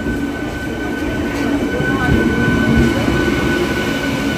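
MEMU electric multiple-unit train pulling in at low speed, its coaches rolling past close by with a dense rumble of wheels on rail, over a steady high whine; the sound grows a little louder as the coaches come alongside.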